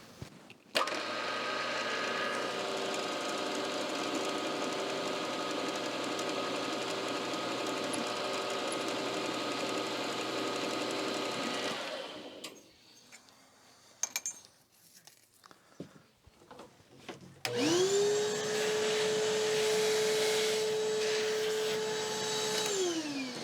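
Milling machine motor running steadily, then stopping about twelve seconds in. A few seconds later it starts again, its whine rising quickly to a steady pitch, and winds down near the end.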